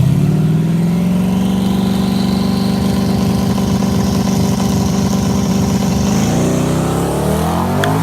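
Twin-turbo Ford Coyote 5.0 V8 Mustang engine under load: its pitch climbs sharply, then holds steady for several seconds with a high whine rising above it, and climbs again near the end.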